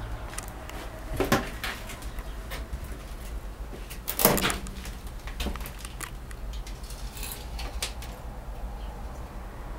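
A few sharp clunks and rattles of metal fittings or a door being handled inside an old locomotive cab. The loudest come about a second in and about four seconds in, with lighter clicks in between and after, over a low steady rumble.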